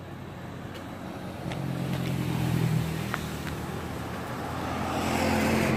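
A motor vehicle's engine running close by, a steady low hum that grows louder about a second and a half in and again near the end, as if passing.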